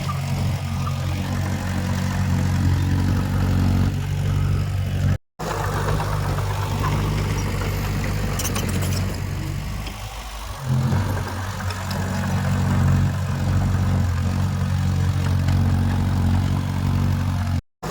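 Heavy earthmoving machine's diesel engine running steadily, dipping and changing pitch briefly about two-thirds of the way through. The sound drops out for a moment twice.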